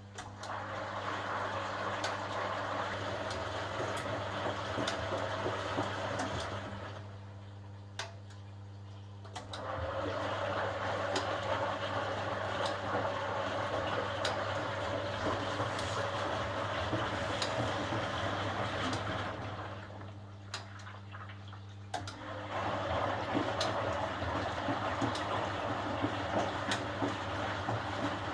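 1980 HUWA Automatic Standard 4 washing machine turning its drum through the wash water in stretches of several seconds, with short pauses about 7 and 20 seconds in, over a steady low hum.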